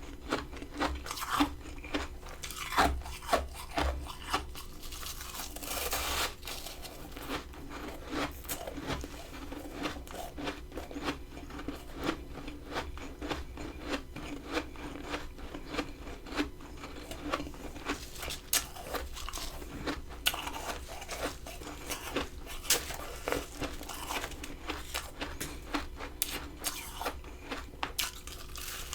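Close-up crunching and chewing of powdery freezer frost, a dense, irregular run of small crisp crunches.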